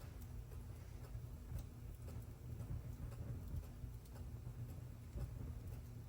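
Wood fire in a fireplace crackling with scattered small pops over a low steady rumble, with a clock ticking evenly in the background.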